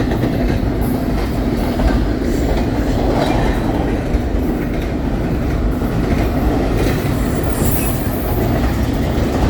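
Intermodal freight train rolling past close by: a steady, loud rumble and clatter of steel wheels over the rails, with a brief high wheel squeal near the end.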